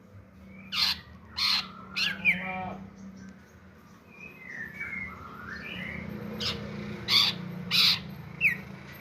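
Green leafbird (cucak ijo) singing: loud harsh rasping notes at intervals, mixed with short whistled glides and a quick stuttering trill about two seconds in. A steady low hum runs underneath.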